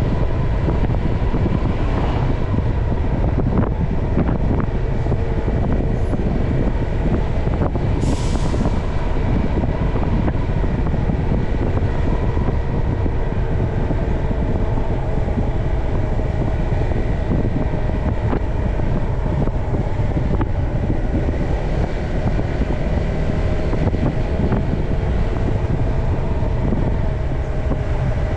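Motorbike engine running steadily while riding, under heavy wind rumble on the microphone. A brief high hiss about eight seconds in.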